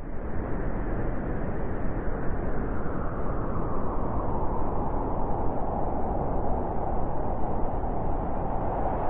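Blizzard wind blowing hard and steadily, a dense rushing noise, with a howling tone growing stronger over the last few seconds.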